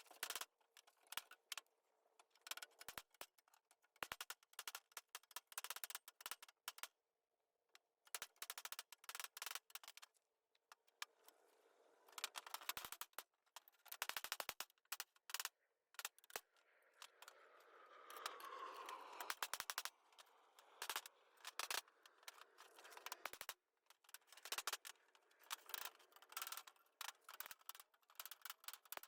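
Tools working on parts in a shop: irregular light clicking and knocking, with a quick run of rapid clicks about halfway through and a stretch of scraping noise after it.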